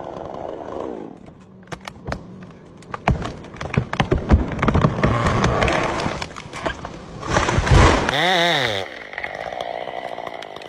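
Chainsaw running in wood, with a run of sharp cracks and snaps in the first few seconds. About eight seconds in its engine pitch dips and climbs back, then it runs steadily.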